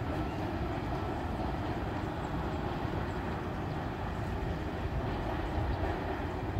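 Train running on the railway line with a steady low rumble.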